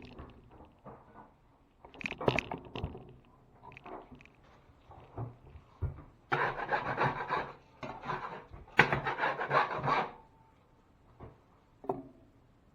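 A hand tool rubbing on drywall in quick back-and-forth strokes, in two runs of a few seconds each past the middle, after a few light knocks and taps.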